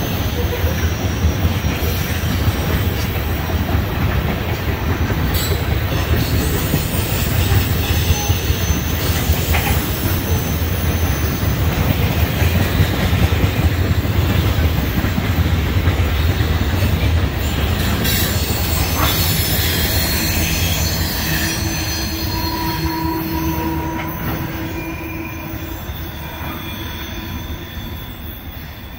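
Oil train tank cars rolling past: a loud, steady rumble of steel wheels on rail, with a few sharp clanks. In the last several seconds the end of the train moves away and the sound fades, leaving thin wheel squeal as the cars take the curve.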